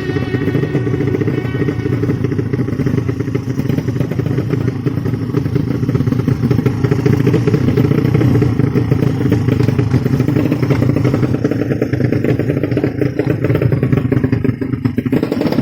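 Underbone race motorcycle engine running with a dense, rapid rattle of exhaust pulses, holding a fairly steady speed.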